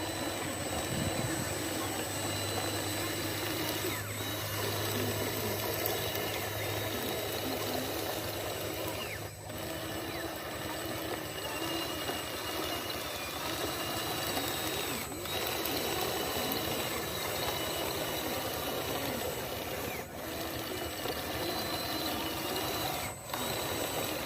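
Small electric motors of radio-controlled construction models whirring, with a thin high whine that shifts in pitch as they work. There are a few short breaks.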